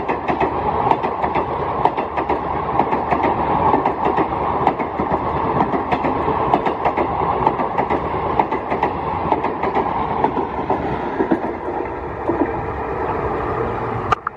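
Express-train passenger coaches passing close at speed: a steady rolling rumble with rapid, irregular wheel clicks over the rail joints. It cuts off suddenly near the end.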